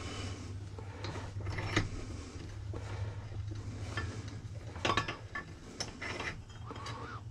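Irregular metallic clinks and scrapes of hand tools working on a microwave magnetron, over a steady low hum.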